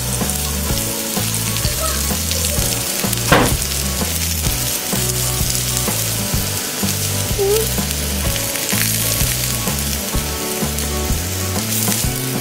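Zucchini slices sizzling steadily in oil on a ridged tabletop grill pan, with one sharp click about three seconds in.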